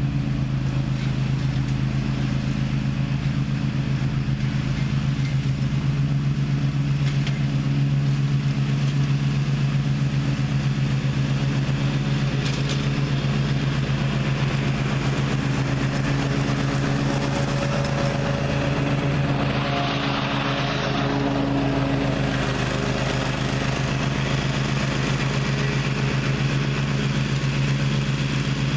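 Gravely ZTX 42 zero-turn riding mower running steadily under load with its blades engaged, a constant engine drone. About two-thirds of the way through there is a brief swell of rushing noise.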